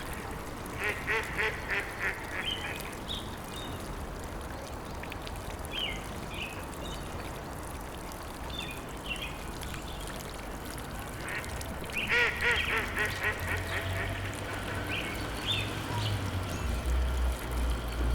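Ducks quacking in two quick runs of repeated calls, about a second in and again about twelve seconds in. Short, higher bird calls are scattered between them over a low, steady rumble that swells near the end.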